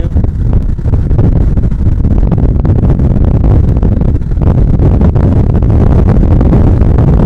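A Bajaj Pulsar 150's single-cylinder engine running while riding, under a steady, loud rumble of wind and road noise on the microphone.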